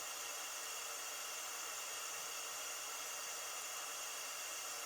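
Pink noise test signal playing steadily through the speakers for a room frequency-response measurement: a constant, even hiss, thin in the bass.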